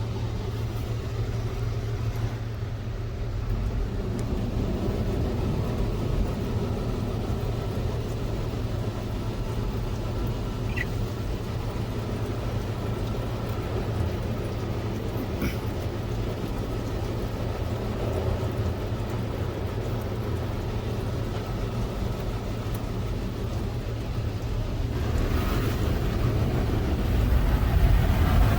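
Automatic car wash machinery running steadily, heard from inside the car as a low rumble and hum. A louder rushing noise builds near the end.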